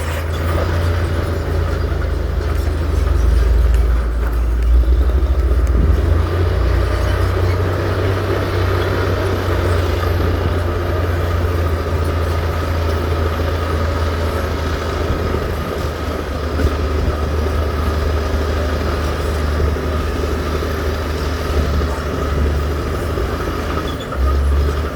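Heavy diesel earthmoving machinery running steadily: a continuous deep engine drone with a steady higher whine above it, swelling a little a few seconds in.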